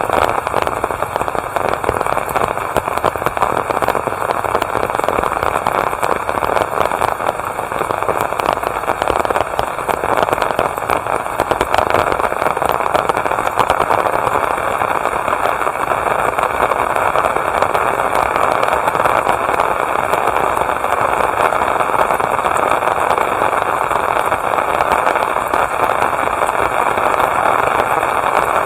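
Steady heavy rain, a dense, crackly patter of drops.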